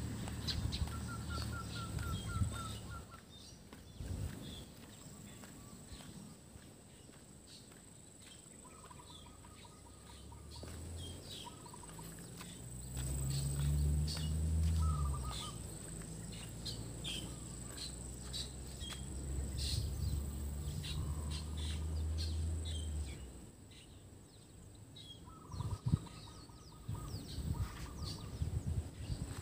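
Outdoor ambience with birds calling in short, rapid pulsed trills several times, a few seconds apart. A low rumble rises in the middle, strongest about a third of the way in, then fades.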